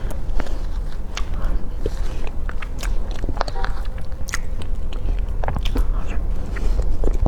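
Close-miked eating sounds: a person biting and chewing food, heard as irregular small wet clicks and smacks, over a steady low hum.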